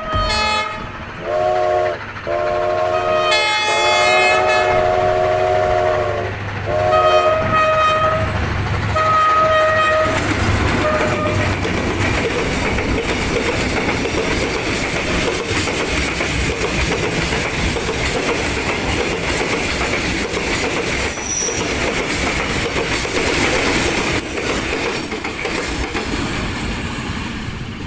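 Train horn sounding several blasts over the first ten seconds, one of them long, then the steady rumble and clatter of a train running past.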